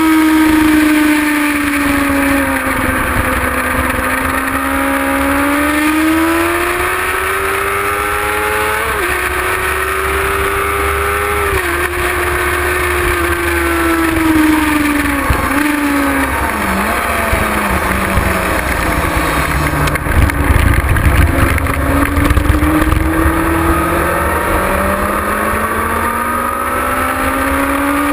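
Onboard sound of a Kawasaki ZX-6R's inline-four engine at track speed. Its pitch climbs, drops sharply at gear changes, falls away as the bike slows, then climbs again near the end. A steady rush of noise runs underneath, with a burst of low rumble about twenty seconds in.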